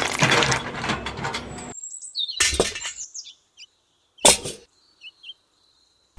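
Background music that cuts off abruptly a couple of seconds in, then a few short high bird chirps with two brief noisy bursts.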